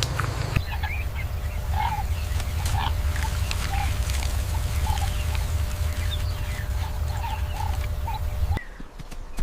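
Poultry calling: short, repeated calls every half second to a second over a steady low rumble, cutting off near the end.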